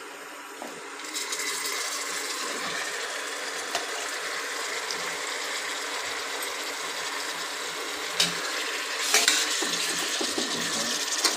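Sliced tomatoes and onions sizzling in hot butter and oil in a steel pot. The steady hiss starts about a second in. A slotted steel spoon stirring the pan scrapes and clinks against the pot several times, the loudest clinks in the last third.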